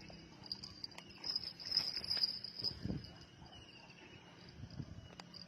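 Insects chirring, a steady high-pitched trill that swells in the middle, with a few faint clicks and a short low sound about three seconds in.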